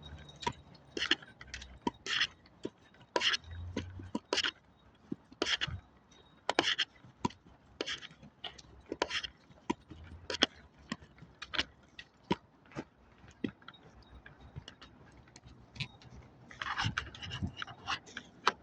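Footsteps while walking: a regular train of short scuffs or slaps, the stronger ones about once a second with softer steps in between.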